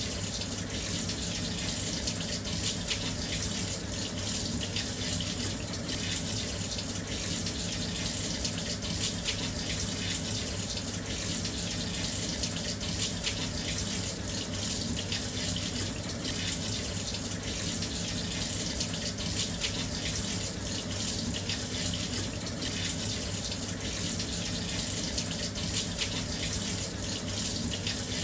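Washing machine filling with water: a steady, even rush of water pouring into the drum.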